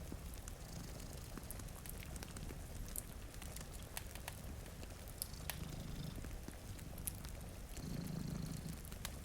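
Domestic cat purring steadily, a low continuous rumble that swells louder near the end, with scattered sharp crackles and pops from a wood fire over it.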